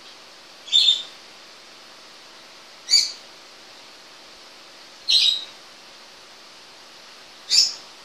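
A bird chirping four times, each call short and high-pitched, about two seconds apart, over a faint steady hiss.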